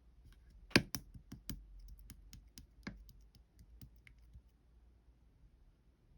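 A run of irregular light clicks and taps, like typing or tapping, with one sharper click about a second in; they thin out and stop about two-thirds of the way through.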